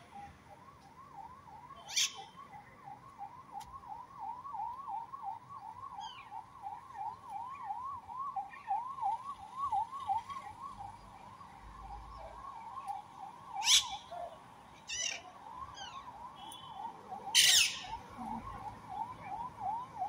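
A bird's quick repeated note, about three a second, running on without a break, with a parakeet's loud harsh screeches cutting in about two seconds in, twice around the middle, and loudest near the end.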